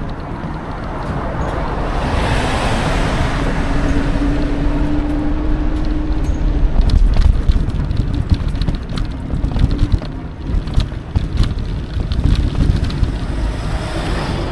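Wind rushing over the microphone of a moving electric mountain bike, with tyre rumble on the trail and a steady motor whine that fades out about ten seconds in. Frequent small clicks and knocks in the second half as the bike rattles over a rougher surface.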